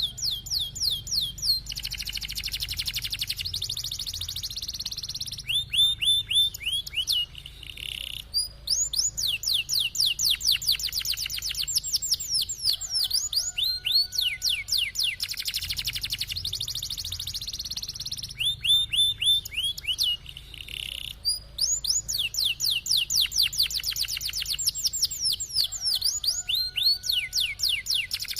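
Domestic canary singing in long phrases. Each phrase joins fast trills of quickly falling high notes with steady rolling tours, sung high and low. The phrases repeat every few seconds.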